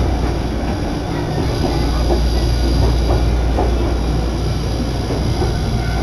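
Nagano Electric Railway train running along the line, heard from inside the carriage: a steady rumble of the wheels on the rails with a few faint knocks.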